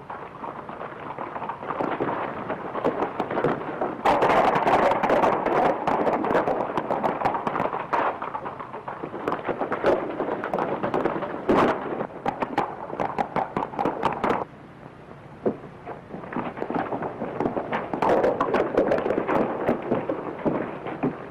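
Horses galloping hard, a rapid irregular clatter of many hoofbeats, dropping off briefly about two-thirds of the way through before picking up again.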